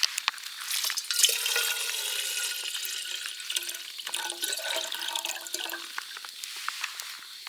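Liquid being poured into a container for about five seconds, starting about a second in, with a hissing pour and a few held tones from the vessel as it fills.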